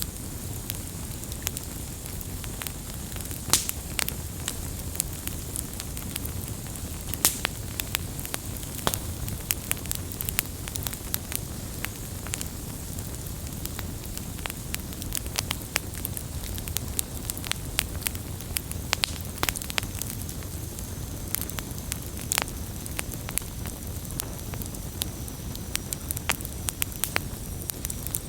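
Wood campfire crackling, a steady low rumble of flame with frequent sharp pops and snaps from the burning wood.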